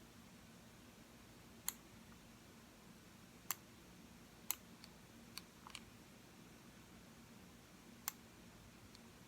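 Computer mouse button clicking, about six single clicks spaced irregularly, two of them close together around the middle.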